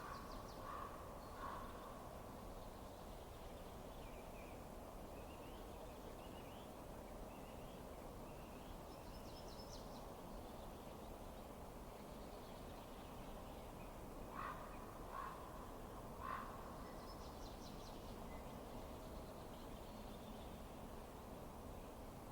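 Birds calling over a faint, steady background hiss. There are two short calls about a second in and three more about two-thirds of the way through, with scattered higher chirps in between.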